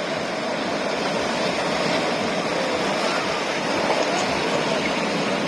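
Ocean surf breaking and washing on a beach: a continuous, steady rushing noise.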